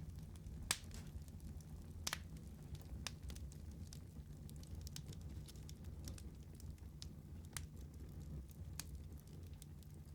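Wood fire burning in a fireplace: a low steady rumble of the flames with scattered sharp crackles and pops, the strongest about a second in and again about two seconds in.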